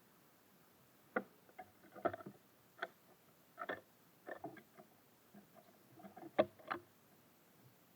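Irregular sharp taps and knocks of small birds pecking at seeds and landing on the feeder, about a dozen in a few seconds.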